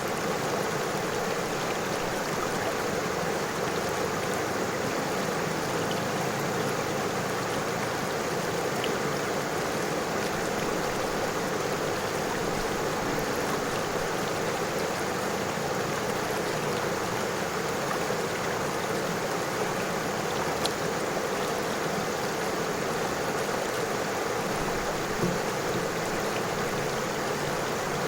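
River water flowing over stones: a steady, even rushing, with a faint tick or two near the middle and again near the end.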